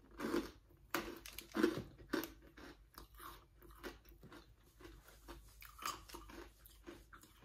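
A mouthful of chocolate-covered sponge toffee (honeycomb) being chewed, with crisp crunches, loudest and most frequent in the first two seconds, then softer, sparser chewing.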